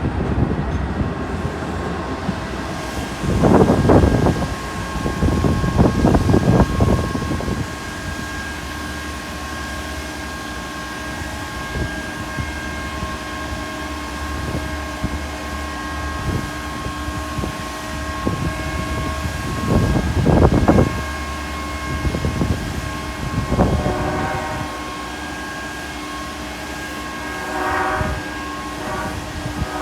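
A train at the station, its equipment giving a steady whine, with several gusts of rumbling noise and a few short pitched notes near the end.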